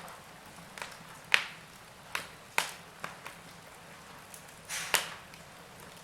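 Wood fire crackling in a fireplace: a low steady hiss with sharp, irregular pops and snaps, the loudest about a second in and again near five seconds.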